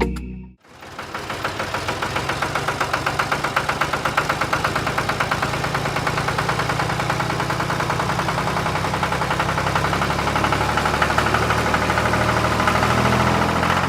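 An engine idling with a rapid, even chugging pulse, starting about half a second in and cutting off just before the end.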